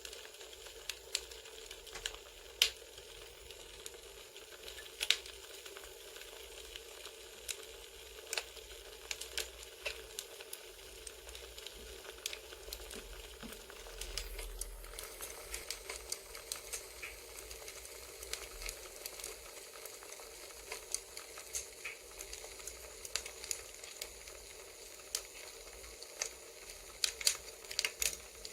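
Crackling campfire: irregular sharp pops and snaps of burning wood over a steady soft hiss.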